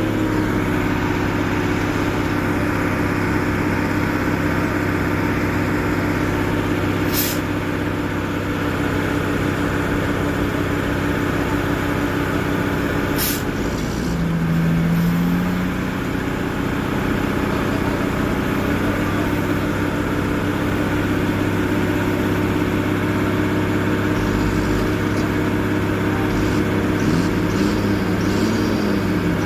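Heavy truck diesel engine running steadily, with two brief sharp air hisses several seconds apart. Near the end a low tone wavers up and down in pitch.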